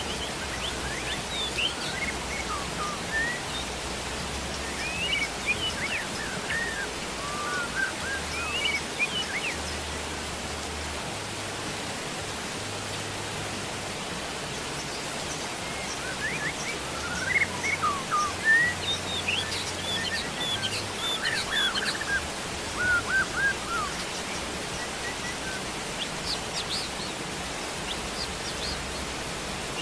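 Steady rain hiss with small birds chirping on and off over it, in short scattered bursts that are busiest around the middle.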